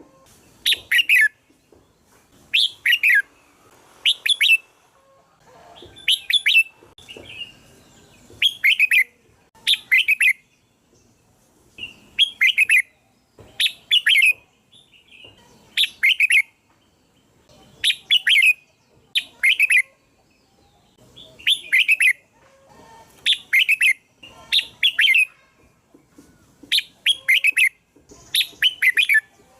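Red-whiskered bulbul singing: a short phrase of a few quick chirpy notes, repeated over and over about every two seconds.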